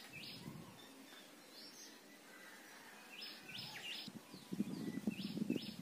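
A small bird chirping faintly in short runs of quick, high calls over quiet outdoor ambience. There is light clicking near the end.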